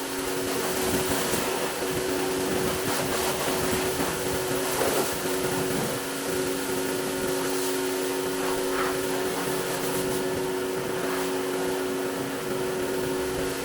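A machine running steadily with a constant hum of several steady tones over an airy noise, like a motor-driven shop tool or extractor.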